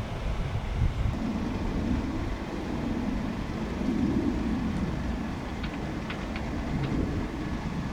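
Low, uneven rumble of jet aircraft engines at the airport, swelling and easing, with a few faint clicks about two-thirds of the way through.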